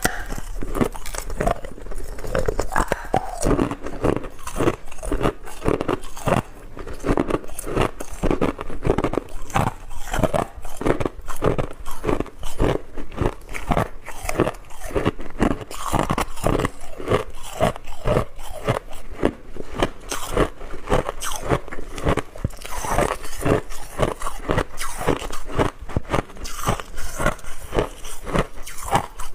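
Hard ice being bitten and chewed close to the microphone: a rapid, continuous run of sharp crunches and cracks.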